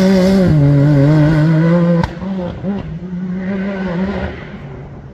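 Off-road competition safari vehicle's engine running hard at high revs, its pitch rising and then dipping slightly. About two seconds in the sound cuts abruptly to a quieter engine note, which fades away near the end.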